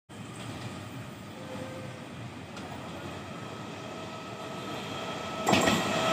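Electric multiple-unit local train approaching at speed, its wheels rumbling on the rails and growing steadily louder with a faint steady whine. About five and a half seconds in the noise jumps suddenly louder as the train nears.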